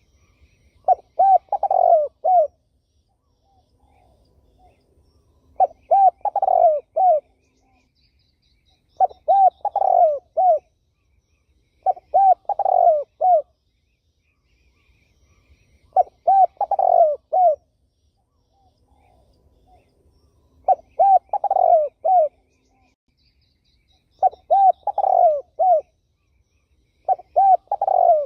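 Turtle dove (terkukur) cooing: a repeated phrase of several hooting coos, about eight phrases, one every three to four seconds. Faint high chirps from other small birds sound between the phrases.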